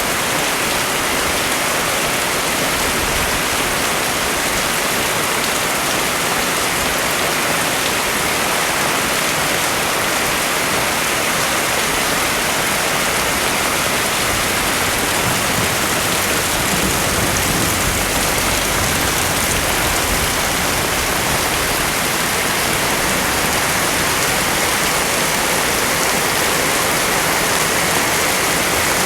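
Heavy rain falling steadily: a loud, dense, even hiss with no let-up.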